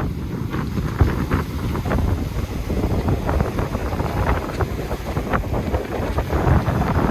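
Wind buffeting the microphone of a moving motorcycle: a steady low rumble with scattered short crackles.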